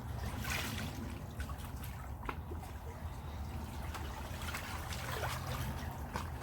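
Water lapping and trickling against the dock, with small irregular splashes over a steady low rumble.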